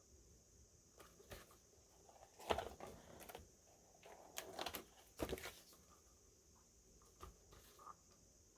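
Unboxing handling noises: paper and plastic packaging items rustling and tapping as they are picked up and set down, in a few short bursts, the loudest about two and a half seconds in.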